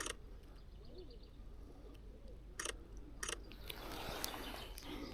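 Short bursts of camera shutter clicks at the start and twice more about three seconds in. Faint, distant bird calls sound in the first second or so. Near the end a rushing wash of waves builds up.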